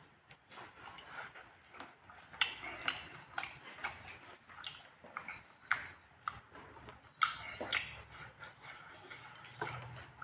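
A person eating fried pork close to the microphone: chewing with irregular wet smacks and clicks of the mouth.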